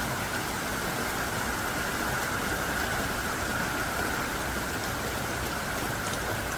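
Heavy downpour of thick, hard-falling raindrops: a steady, even rush of rain that does not let up.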